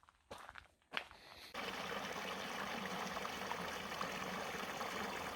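A few soft footsteps, then steady running water that cuts in abruptly about a second and a half in.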